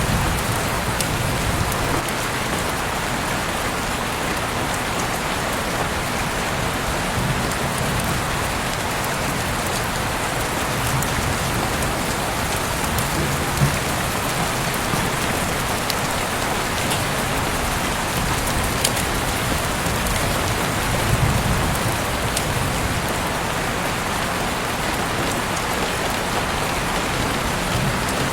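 Heavy rain falling steadily, a dense even hiss with scattered drops ticking on nearby surfaces, as heard through an open window.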